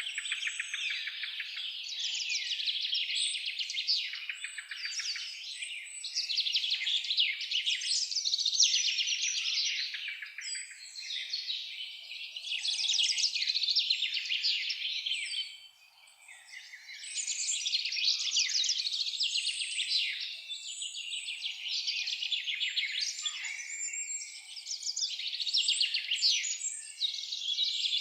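Several songbirds singing at once in a dense chorus of rapid chirps and trills, with a brief lull a little past halfway.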